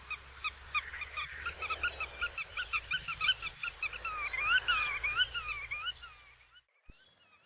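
A flock of black-tailed godwits calling in a rapid, overlapping series of short notes, several a second. The calling stops about six seconds in.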